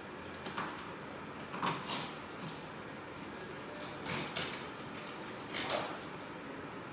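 A large cardboard carton being opened and handled: about four short scraping, rustling noises spread through the moment, over a faint steady background hiss.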